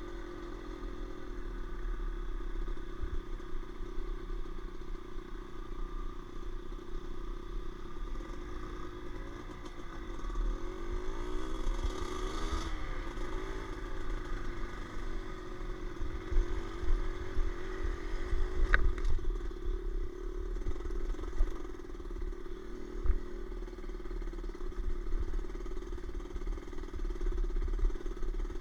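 Off-road motorcycle engine running steadily while riding, with wind rumbling on the microphone. It gets louder and more uneven in the second half, with one sharp click about two-thirds of the way through.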